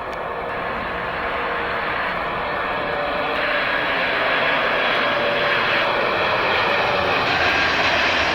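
Airliner's jet engines, a broad rushing noise with faint steady whining tones, growing steadily louder as the plane approaches.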